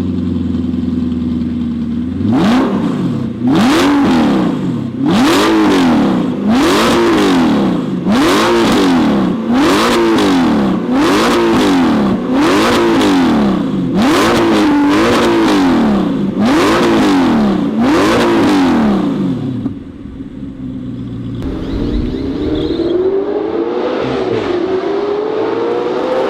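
Audi R8 engine through an aftermarket Fi exhaust being revved hard and repeatedly, about a dozen quick rev-and-release blips a little over a second apart, after a short idle. Near the end it settles briefly, then climbs in a long rising run of engine speed with a brief dip partway.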